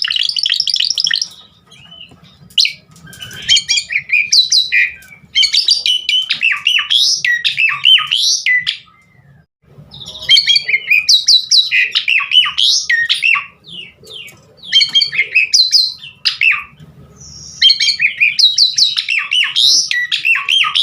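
Javan pied starling (jalak suren) singing in its full, busy form: long bursts of fast chattering and whistled phrases, with fill-ins mimicking other birds, broken by short pauses of about a second.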